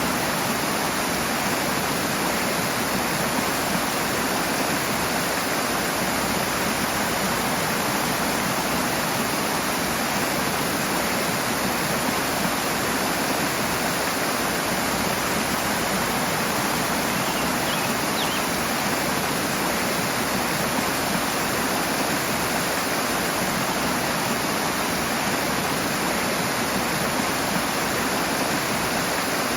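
Rushing water, a strong stream or cascade flowing in a steady, unbroken rush.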